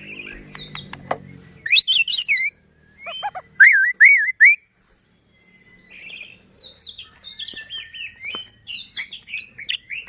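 White-rumped shama (murai batu) singing a varied song: a few sharp clicks, then clear whistled phrases, a run of four looping whistled notes about four seconds in, a brief pause, and a fast string of mixed notes to the end.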